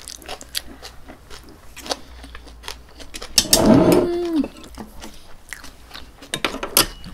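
Close-miked mukbang chewing and wet mouth clicks from eating pork belly and shredded green onion. A short hummed vocal sound of enjoyment, bending in pitch, comes about three and a half seconds in, and a few sharper clicks follow near the end.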